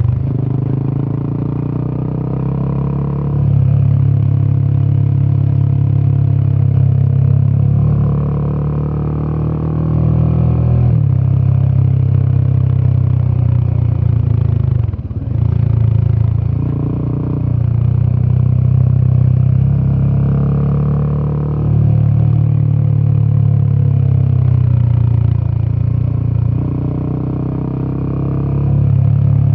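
Royal Enfield Himalayan 450's single-cylinder Sherpa 450 engine running through its exhaust under way. The throttle opens and eases off several times, and the engine sound dips briefly about halfway through.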